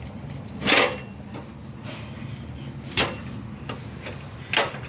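Metal clicks and clunks from a steel motorcycle dolly's locking mechanism being worked: three sharp knocks, about a second in, around three seconds and near the end, with a few lighter ticks between.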